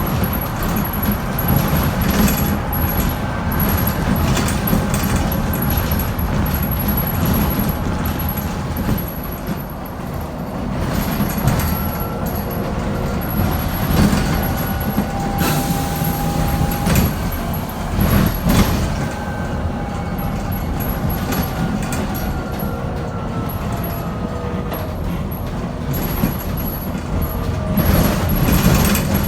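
BYD K9A battery-electric city bus under way: the electric traction motor's whine gliding up and down in pitch with speed, over steady road rumble and sharp knocks and rattles of the body.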